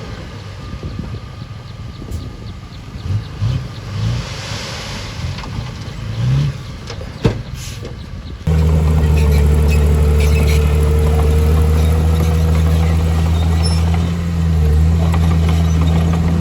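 Heavy diesel engine of earthmoving machinery running. For the first half it is quieter and uneven, with a few sharp knocks and a brief rise in revs. Just past halfway it jumps abruptly to a much louder, steady, deep running sound.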